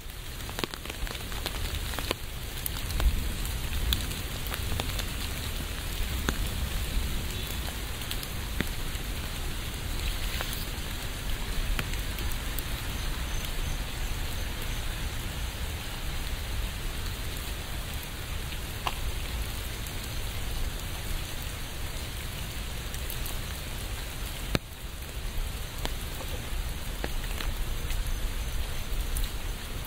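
Steady rain falling, an even hiss with scattered sharp ticks of single drops and a low rumble underneath. The level dips briefly about 25 seconds in.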